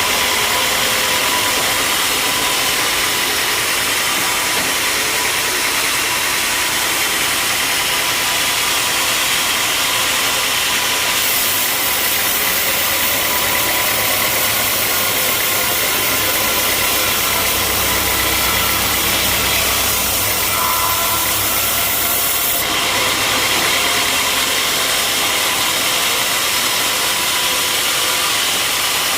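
Sawmill machinery running steadily with a loud, even noise. The sound grows brighter and fuller for about eleven seconds in the middle, then settles back.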